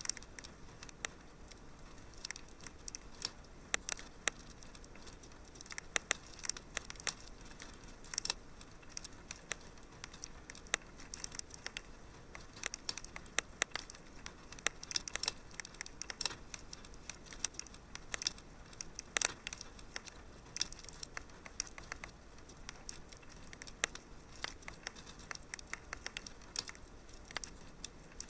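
Wood fire crackling in a fireplace: a steady run of irregular small pops and snaps over a soft hiss, with no rhythm.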